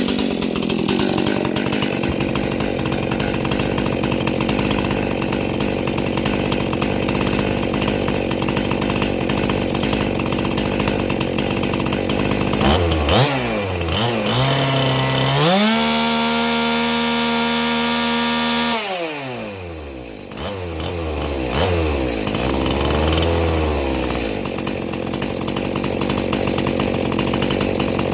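Stihl MS 261 two-stroke chainsaw running loud and steady. About halfway through it revs up to a high, steady wide-open-throttle scream for a few seconds, drops back, then is blipped up and down a few more times. This is the carburettor being adjusted after a rebuild and mild port job.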